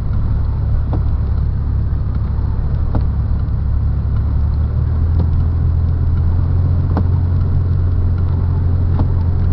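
Car cabin noise while driving on a snowy road: a steady low rumble of engine and tyres, with a few faint clicks.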